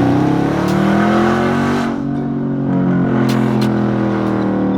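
2019 Dodge Charger HEMI V8 exhaust, straight-through after a mid-muffler and resonator delete, pulling loud and steady under acceleration with the windows down. The engine note holds high, sagging briefly about two seconds in.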